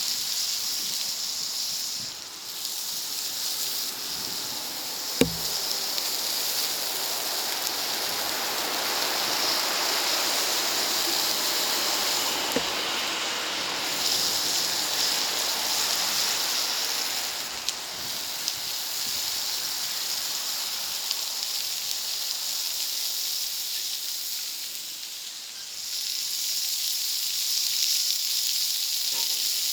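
Food sizzling on a hot plancha, a steady high hiss that eases briefly a few times, with a single sharp knock about five seconds in.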